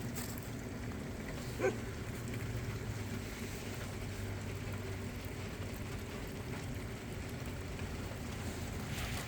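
Steady outdoor ambience of light rain with a low, even rumble underneath, and one short high-pitched sound about a second and a half in.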